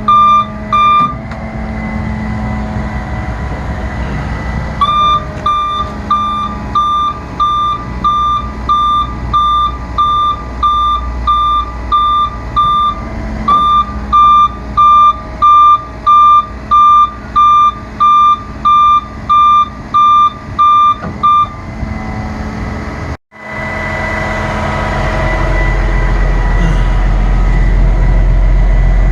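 Truck's back-up warning alarm beeping at a little more than one beep a second over a steady diesel engine idle, with two short pauses in the beeping. Near the end the beeping has stopped and the engine's low rumble rises and holds louder.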